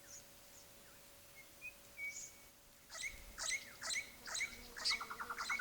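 Orange-bellied parrots calling. A few faint short calls are followed, from about three seconds in, by a run of sharp, high calls in quick succession, and a fast ticking trill joins near the end.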